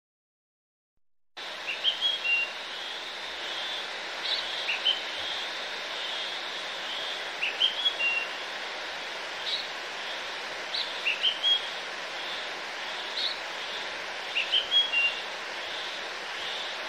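Songbirds chirping over a steady hiss: a quick group of short, high, rising chirps every two or three seconds. The sound starts about a second in, after silence.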